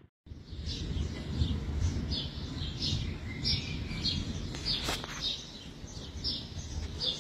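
Small birds chirping, short high calls repeating every half second or so, over a low steady rumble. A single sharp click comes about five seconds in.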